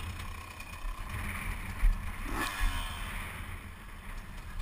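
Motocross bike engines running, with a steady low rumble on the microphone and a short louder burst about two and a half seconds in.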